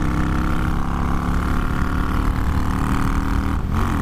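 Motorcycle engine running at a steady cruise, heard from the bike with wind rush over the microphone.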